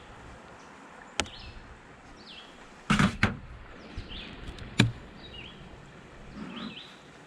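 Wooden beehive parts being handled: a sharp click about a second in, a loud cluster of knocks around three seconds, and another knock near five seconds. Birds chirp faintly in the background.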